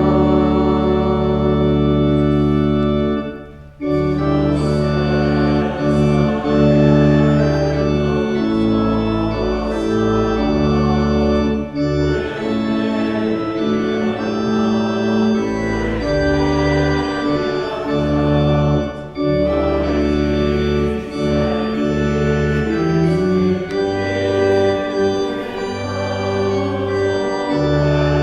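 Church organ playing a slow hymn tune in held chords that change every second or so, with a brief break in the sound about three and a half seconds in.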